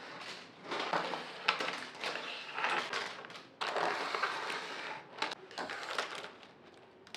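Household objects being handled during chores: irregular rustling and scraping with scattered clicks and light knocks.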